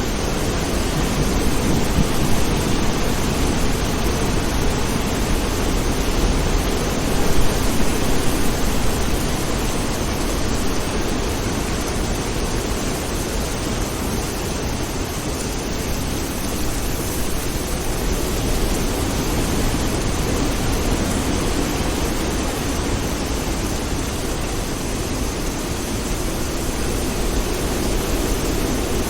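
Steady heavy rain, an even, continuous rush of noise with no distinct drops or thunder claps.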